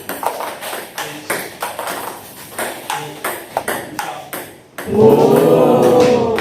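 Table tennis balls being struck by rackets and bouncing on the table in a multi-ball drill: sharp clicks, two or three a second. About three-quarters of the way in, a loud pitched sound, rising and then falling in pitch, takes over for about a second and a half.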